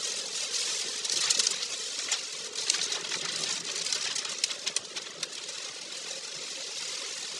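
Heavy typhoon rain on a moving car, heard from inside: a steady hiss with many scattered sharp ticks of drops striking the body and windscreen.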